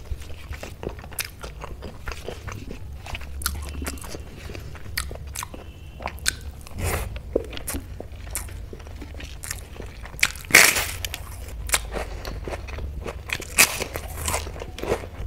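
Close-up eating sounds: chewing and crisp crunching of moong dal papad, many small crackles with one loud crunch about ten and a half seconds in.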